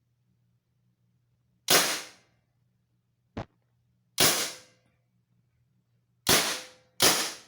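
Mag-fed Tippmann paintball marker with a Blizzard conversion, firing HP68 rounds: four sharp air-powered shots at uneven intervals, with a short click between the first two. The magazine feeds each shot without a jam.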